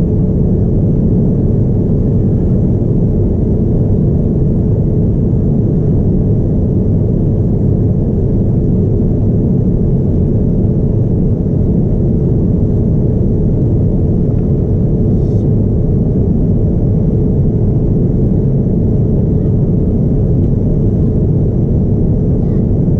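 Steady cabin noise inside a Boeing 787-9 Dreamliner airliner in flight: an even low rumble of engines and airflow with a faint steady hum.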